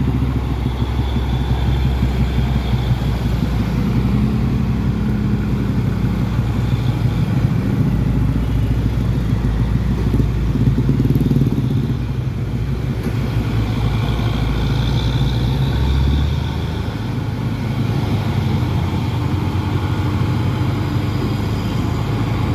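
Motor vehicle engine running steadily, a low drone that eases off about sixteen seconds in.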